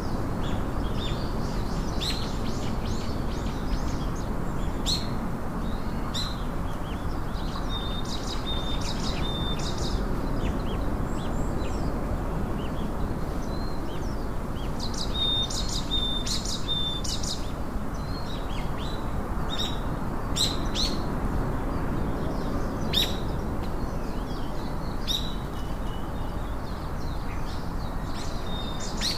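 Small songbirds chirping and calling: many quick high chirps, with a few short level whistled notes, over a steady low rushing background noise.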